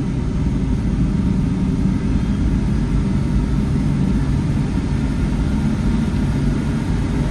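Boeing 757-300 cabin noise heard from a window seat: a steady low rumble from the jet engines running at low power, likely during taxi, with no sudden changes.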